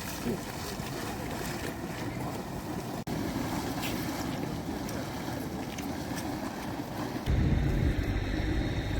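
Steady wind noise on the microphone, then about seven seconds in a sudden, much louder low whoosh as a geyser erupts.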